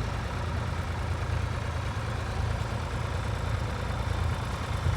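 Ford 4000 tractor engine running steadily with a low hum as it works across the field on a ploughing match.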